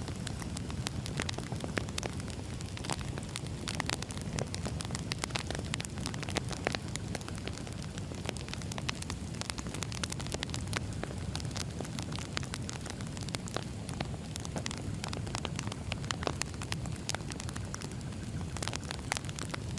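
Firewood burning with a low steady rush of flame and dense, irregular crackles and pops throughout.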